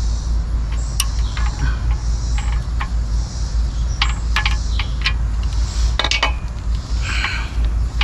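Irregular small metallic clinks and taps, like tools and engine parts being handled, with a cluster of quick clinks about six seconds in, over a steady low rumble.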